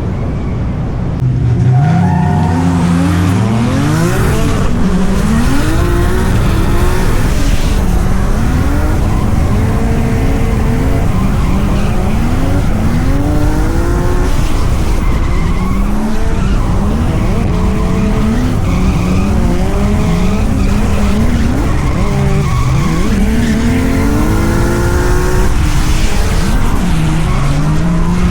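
Drift car with a swapped 2JZ-GTE turbocharged straight-six revving hard, its pitch climbing and falling again and again, over the steady noise of tyres skidding sideways. The engine comes in loud about a second in.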